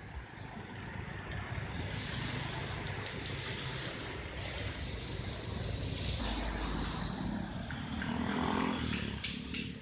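A motor vehicle passing close by on a street, its engine and road noise building over the first couple of seconds and dropping away shortly before the end.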